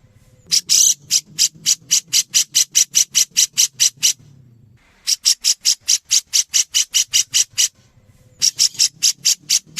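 Grey-cheeked bulbul (cucak jenggot) calling in fast runs of sharp, high notes, about four to five a second. The runs come three times, each broken off by a short pause.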